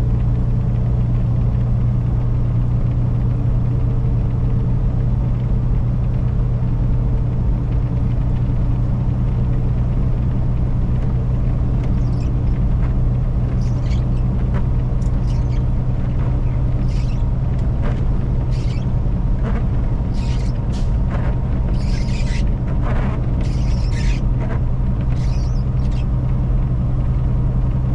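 Semi-truck cab on the road: steady low engine drone and road rumble. Scattered short clicks and rattles come in from about halfway through.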